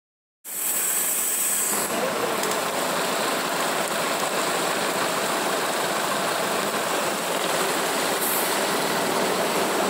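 Steady hiss of heavy rain and rushing floodwater on a flooded street, starting about half a second in.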